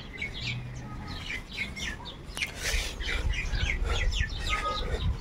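Small birds chirping: many short, quick calls overlapping, over a low rumble.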